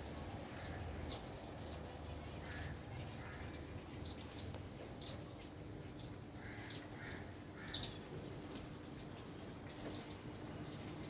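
Small birds chirping: short, high chirps at irregular intervals, a few louder ones around the middle, over a faint steady outdoor hiss.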